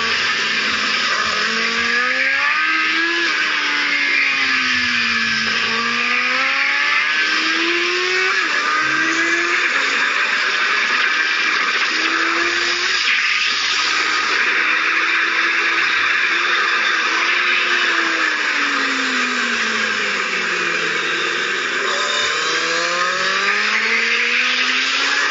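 Kawasaki Z750's inline-four engine pulling hard, its pitch climbing and dropping again and again through gear changes, with a long fall in revs about two-thirds of the way through before it climbs again. Heavy wind rush over the onboard microphone at speed.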